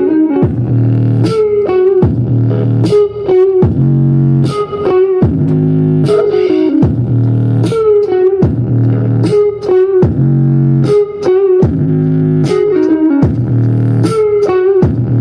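Rock music with electric guitar and heavy bass played loud on a car stereo, heard inside the car; an instrumental riff repeats about every second and a half, without singing.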